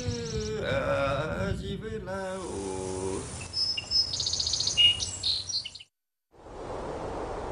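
A documentary soundtrack: for the first three seconds, music with chant-like voices. Then quick, high bird chirps and whistles, a sudden cut to silence about six seconds in, and a steady hiss of noise.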